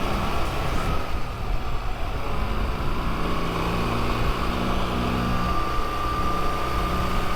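Motorcycle engine running while riding, with steady wind and road noise. The engine note drops away about a second in and picks up again about four seconds in.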